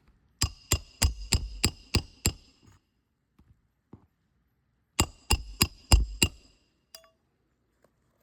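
Roofing hammer striking a steel roof snake to drive a roofing nail in under a shingle: a run of seven quick metallic blows, then a pause and a second run of five, each blow ringing briefly.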